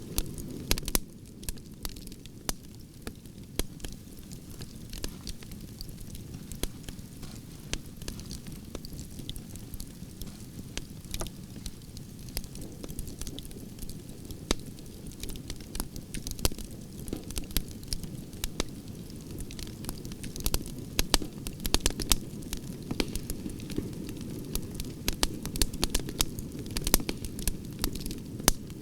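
Wood fire of burning branches crackling, with irregular sharp pops and snaps over a steady low rumble of the flames; the pops come thicker near the end.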